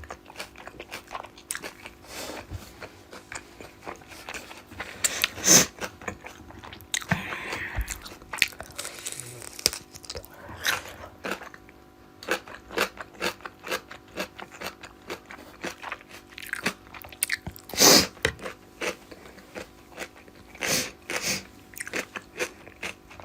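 Close-up eating sounds of a person eating rohu fish curry with rice: chewing and wet mouth clicks at an irregular pace, with louder knocks about five and a half and eighteen seconds in.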